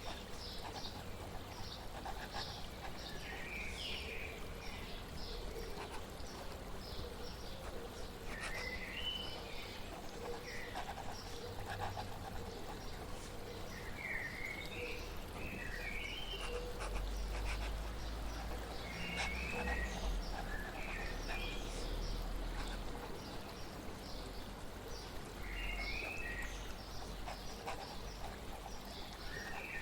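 Songbirds chirping and warbling in short repeated phrases over a steady hiss of flowing water, with a low rumble that swells about halfway through.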